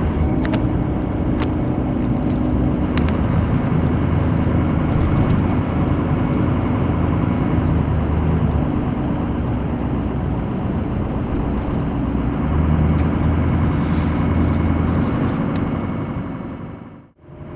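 Road and engine noise inside a moving vehicle at highway speed: a steady drone with a low hum. It drops out briefly near the end and then comes back.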